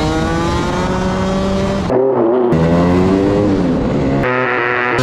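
Motor scooter engine revving loudly in several clips spliced together. The sound cuts abruptly from one clip to the next, about two seconds in and again near the end, and the pitch rises and falls.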